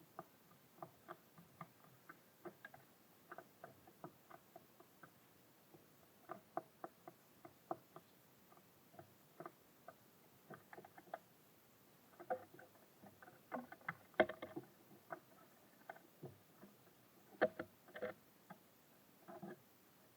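Irregular light tapping and knocking, a few taps a second and louder in two short clusters: small birds pecking seeds and hopping about on a bird feeder.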